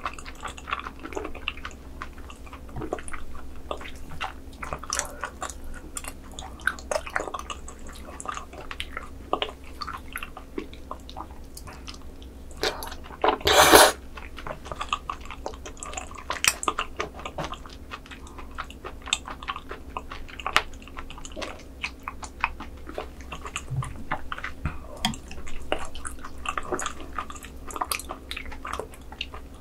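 Close-miked wet chewing of raw squid sashimi strands coated in sea cucumber intestine sauce, full of small sticky smacks and clicks. Near the middle comes one loud, brief slurp.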